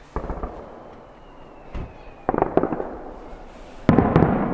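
Aerial fireworks shells bursting: a bang near the start, a quick cluster of cracks about two seconds later, and the loudest burst of cracks about four seconds in, trailing off slowly.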